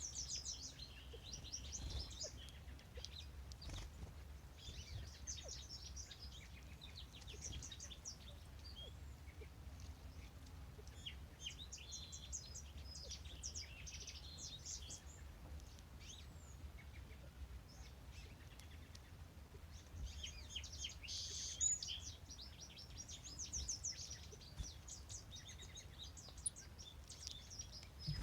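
Songbirds singing, faint: short high trilled song phrases repeated every few seconds with gaps in between, over a steady low rumble.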